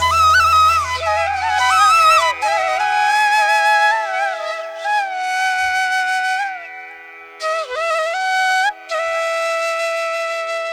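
Background music: a solo flute melody with bending, ornamented notes over a held drone, fading toward the end.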